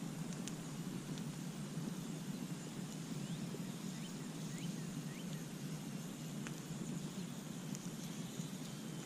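Campfire burning with a steady low rumble and a few sparse, faint crackles and pops.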